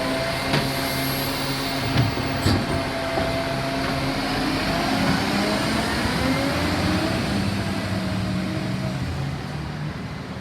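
Euro 6 garbage truck running, its engine and hydraulics making a steady mechanical sound, with sharp knocks in the first few seconds and a pitch that glides upward around the middle as it revs. It fades near the end.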